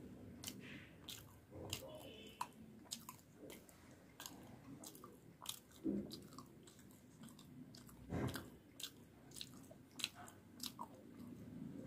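A person chewing puri (deep-fried bread) and fried potato close to the microphone: many small wet mouth clicks and soft crunches, with two louder chewing sounds about six and eight seconds in.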